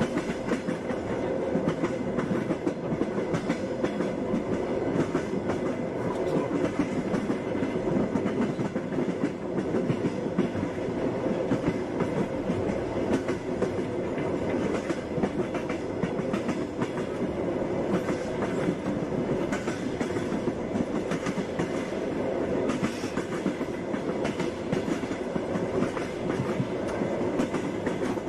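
Passenger train wheels clacking over rail joints as the train runs steadily: a continuous rumble with frequent repeated clacks.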